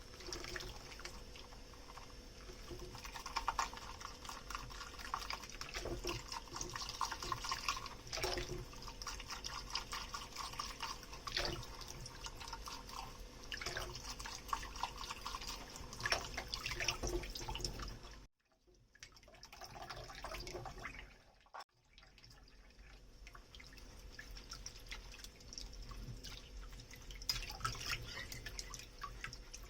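Kitchen tap water running into a sink while dishes are washed, with scattered small clinks and drips. The sound cuts out abruptly twice, briefly, about two-thirds of the way through.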